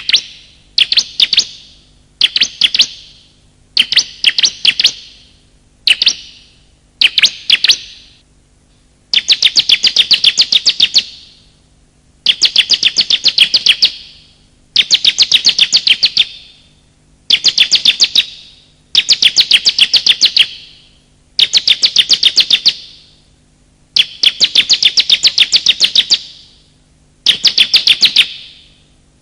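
Bar-winged prinia (ciblek) call recording played as a bird lure: bursts of rapid, sharp chip notes repeated with short pauses, brief bursts at first and then longer runs of about two seconds each.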